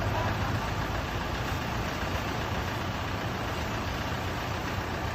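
A vehicle engine running steadily under a continuous rushing noise.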